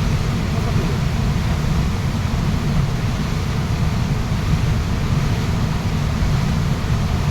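Waterfall rushing: a loud, steady, unbroken noise of falling water, heaviest in its low rumble.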